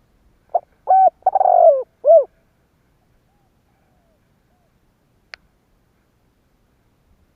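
Spotted dove cooing: one phrase of four low notes about half a second in, the third note drawn out longer than the others. A single sharp click comes about five seconds in.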